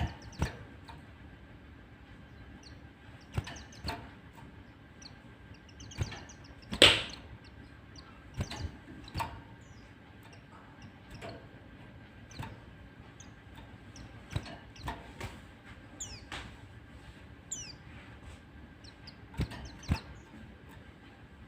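White-eye calling in sparse, short sounds: scattered sharp chirps and clicks, a few quick high chittering runs and brief high falling whistles, the loudest chirp about seven seconds in.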